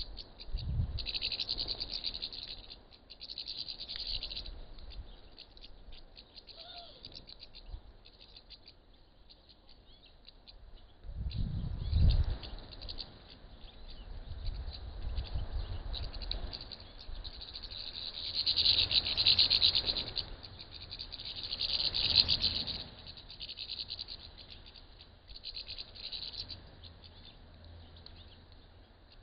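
A flock of small birds chirping and twittering, swelling in several louder bursts and dying down between them. A short low rumble about twelve seconds in.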